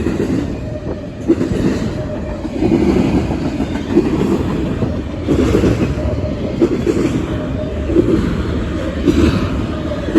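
Long train passing close by: a steady low rumble with wheels clacking over the rail joints, a sharp clack about every second and a half.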